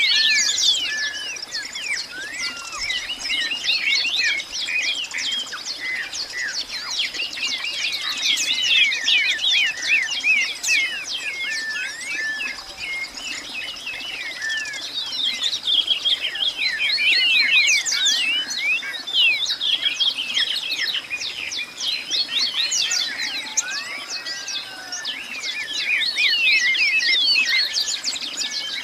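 A dense chorus of many birds chirping and calling all at once, rapid overlapping short chirps, with a thin steady high-pitched tone running beneath them.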